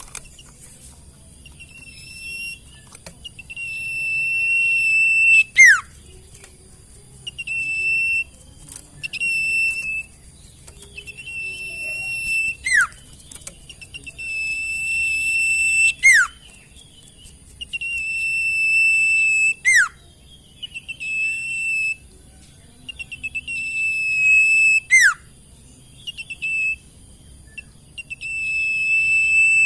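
Sirtu bird song: clear, level high whistles of a second or two, repeated, broken every few seconds by a quick whistle that sweeps steeply down in pitch.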